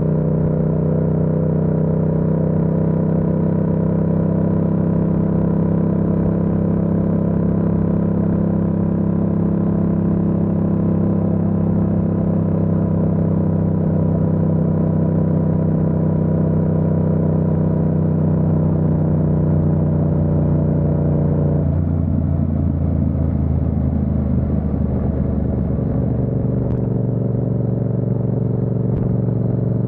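Yamaha MT-07's parallel-twin engine running steadily at cruising speed. About 22 seconds in, its note breaks up and changes, then settles into a steady lower note for the last few seconds.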